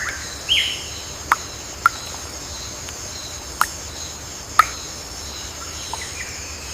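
Tropical forest ambience: a steady high drone of insects with scattered bird chirps, and four short sharp calls standing out over it.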